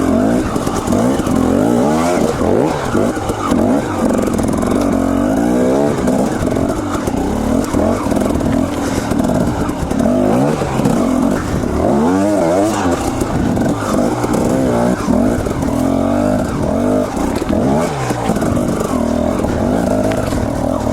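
Two-stroke Husqvarna TE250 dirt bike engine revving up and down under constantly changing throttle, its pitch rising and falling again and again.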